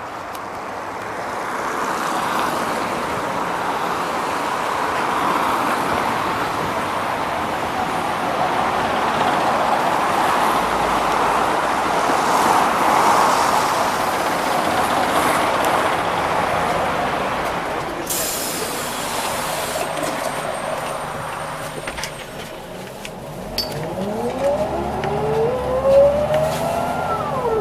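Scania OmniLink CL94UB city bus heard from the passenger cabin: steady running and road noise, a short hiss of air about two-thirds of the way in, a brief quieter spell, then a whine rising in pitch as the bus pulls away and speeds up, dropping sharply near the end as the gearbox shifts up.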